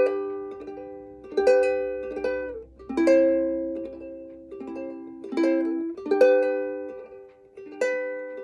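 Acoustic string instrument strummed with no singing, a chord struck about every second and a half and each left to ring out.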